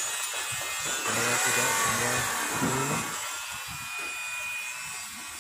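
Steady workshop noise from power tools working on wood or metal, with a voice briefly in the background about a second in.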